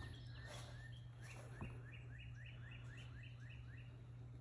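Faint songbird song: a quick run of about a dozen down-slurred notes, roughly five a second, beginning about a second in, over a steady low hum.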